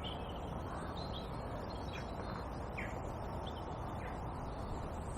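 Small birds chirping, short scattered calls every second or so, over a steady background rush.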